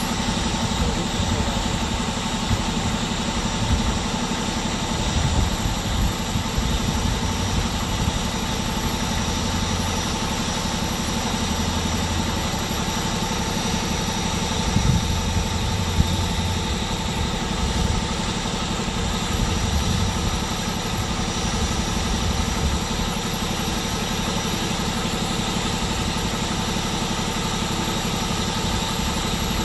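A vehicle engine idling steadily, a continuous low rumble, with a few brief louder moments.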